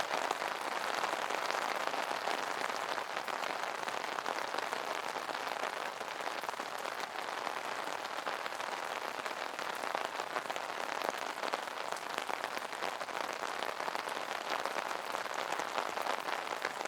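Steady rain pattering on an umbrella canopy, a dense patter of drops.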